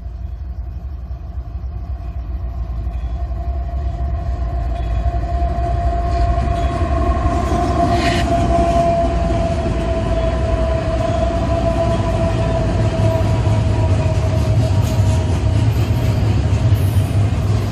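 Florida East Coast Railway intermodal freight train passing close by. Its diesel locomotives rumble past with a steady engine hum that swells as they go by, then the double-stack container cars roll past. The rumble grows louder over the first few seconds as the train approaches.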